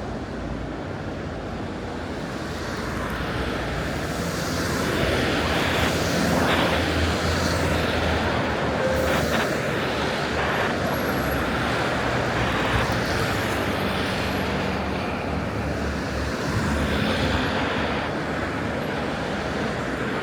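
Cars driving past on a city street: tyre and engine noise that swells about three seconds in and stays up, with a couple of brief clicks near the middle.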